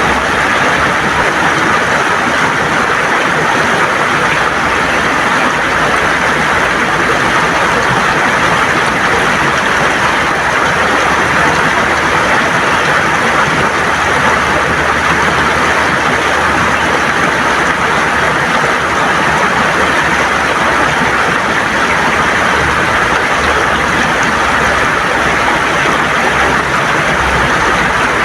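River water gurgling and rushing over smooth stones, a steady, unbroken flow.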